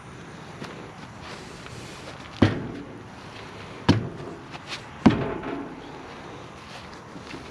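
Heavy metal clanks from tie-down chains and binders being handled on an equipment trailer: three loud, sharp knocks about a second or so apart, the last one ringing briefly.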